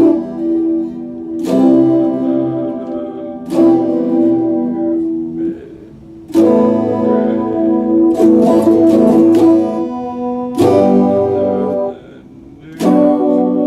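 Epiphone Les Paul Special II electric guitar strumming chords, each struck and left to ring for about two seconds before the next.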